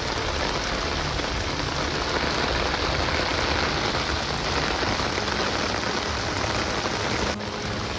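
Heavy rain, a dense steady hiss of rain and water, turning duller near the end.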